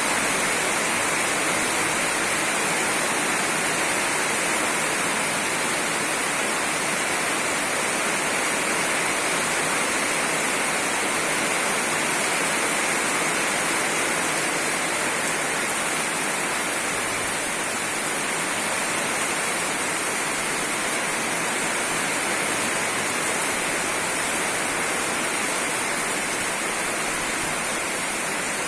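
Steady rain falling hard, an even unbroken hiss with no single drops or gusts standing out.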